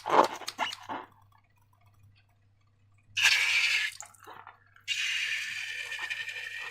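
Slime squishing briefly at the start, then a short loud hiss about three seconds in and a longer steady hiss from about five seconds in.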